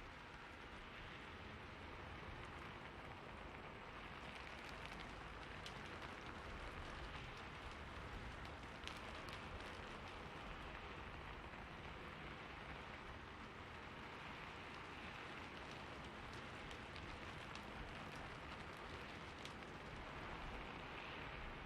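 Steady, faint rain falling, with scattered sharper drip ticks.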